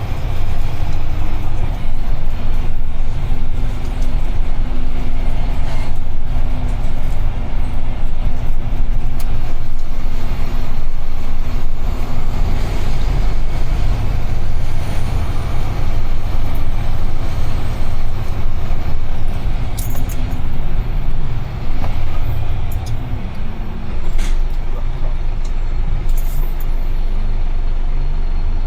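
UD Trucks Quon heavy truck under way, its diesel engine and road noise heard from inside the cab as a steady low rumble. A few brief sharp ticks stand out in the second half.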